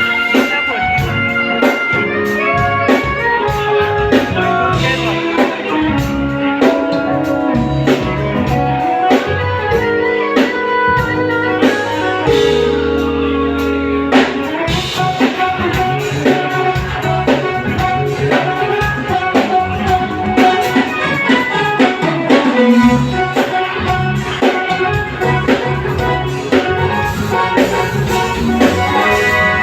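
A band playing an instrumental passage of a pop song, with drums keeping a steady beat under guitar and other pitched instruments; a chord is held for a couple of seconds near the middle.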